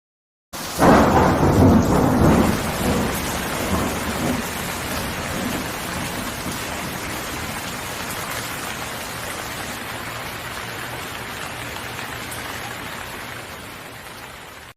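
A thunderclap breaks about half a second in and rumbles away over several seconds, leaving a steady hiss of rain.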